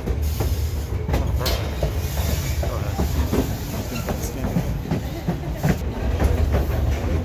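White Pass and Yukon Route passenger railcar rolling along the track: a steady low rumble with irregular clicks and clacks from the wheels.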